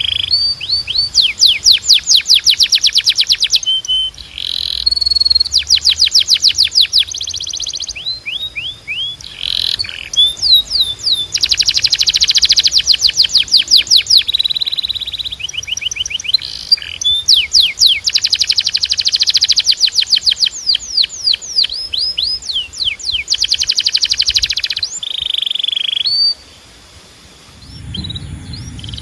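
Domestic canary singing: fast trills of rapidly repeated sweeping notes, broken by short steady whistled notes. The song pauses briefly about 26 seconds in.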